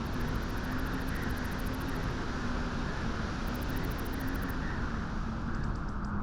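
Steady wind blowing at a beach, a continuous deep rushing with no gusts or breaks and a faint wavering low whistle in it.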